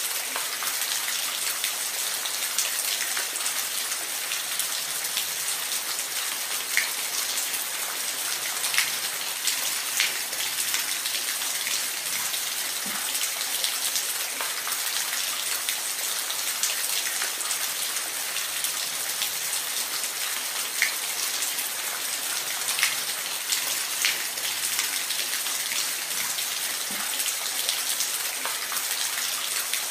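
Steady rain, an even hiss with scattered sharper ticks of single drops hitting a surface.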